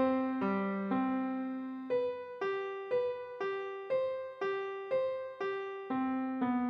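Solo piano playing a simple beginner's miniature: single notes struck about twice a second, each ringing and fading, over a few held lower notes.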